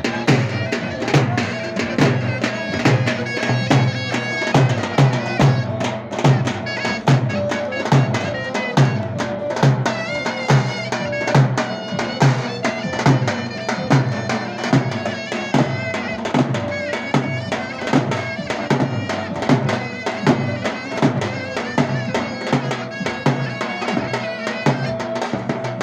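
Davul and zurna playing a dance tune: the davul beats a steady rhythm of about two strokes a second under the zurna's sustained reedy melody.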